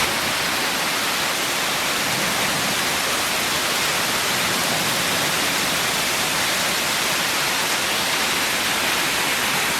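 Heavy hail and rain pouring down in a dense, steady hiss, with no single strikes standing out.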